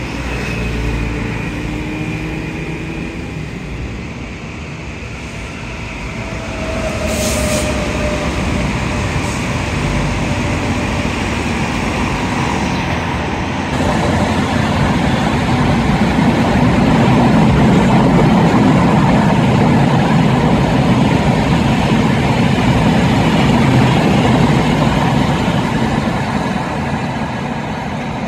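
Trains rolling past: an air-conditioned suburban EMU local, then the coaches of a Rajdhani Express, a continuous rumble of wheels on track. It grows louder about a quarter of the way in, and louder again about halfway, as the Rajdhani coaches pass closest.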